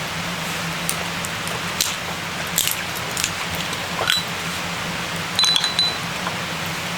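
Steady hiss of rain, with a handful of light, sharp clinks of small hard objects, one of them ringing briefly about five and a half seconds in.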